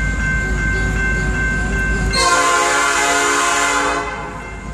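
Freight locomotive horn sounding one long blast, starting about two seconds in and lasting about two seconds. Underneath it are the low rumble of the approaching train and the steady ringing of the grade-crossing bells.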